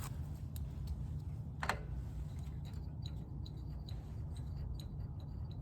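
Light handling noises on a small snowblower engine: scattered faint clicks and ticks, with one sharper tap a bit under two seconds in, over a steady low hum.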